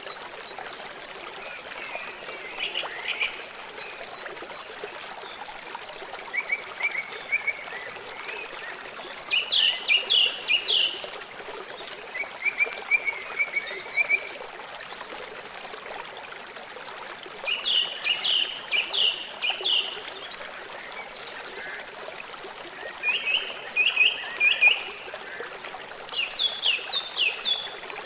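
A small bird singing short phrases of quick falling notes every few seconds over the steady rush of a stream.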